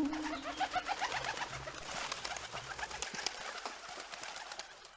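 Birds chirping in quick, short rising calls that fade gradually toward the end.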